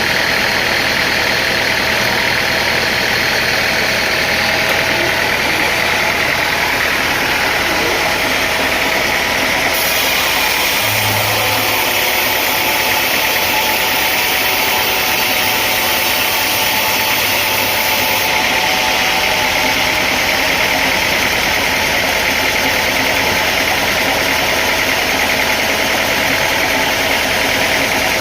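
A machine running steadily, with a constant mechanical noise.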